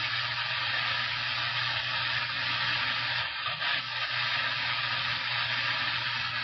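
CB radio receiver hissing with steady static between transmissions, a low hum under it, with a brief dip a little past halfway.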